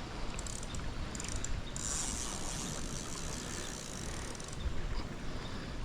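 Fishing reel ratcheting in a steady whirr for about three seconds while a hooked fish is being fought, over wind rumble on the microphone.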